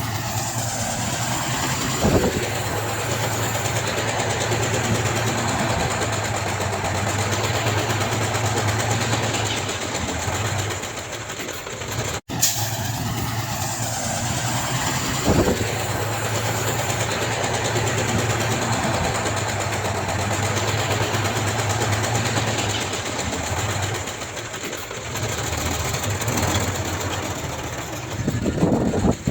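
Heavy earthmoving machine's diesel engine running steadily, with a few sharp metallic knocks; the sound cuts out for an instant near the middle.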